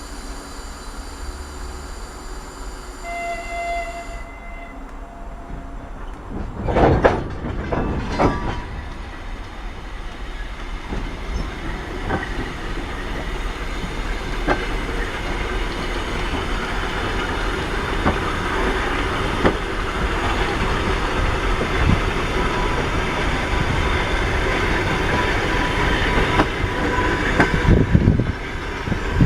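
A diesel-hauled train rolling past, its wheels clicking over the rail joints as the rumble grows steadily louder. There are two loud bangs about seven and eight seconds in.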